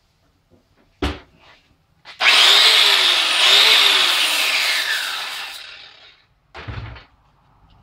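A power grinder grinding the zinc coating off a galvanized steel hinge for about three seconds, its pitch dipping and recovering under load, then winding down. A click comes before it and a thump after.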